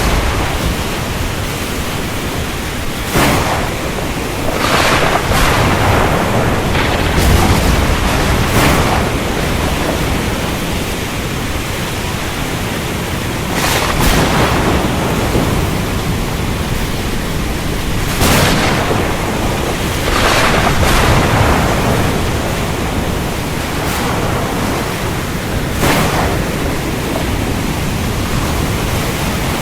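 Steady heavy rain with sharp thunder cracks every few seconds, over a low rumble.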